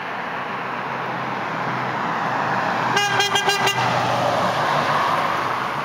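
A road vehicle passes by, its noise rising and then fading. About three seconds in, a horn sounds in a brief, rapidly pulsing blast.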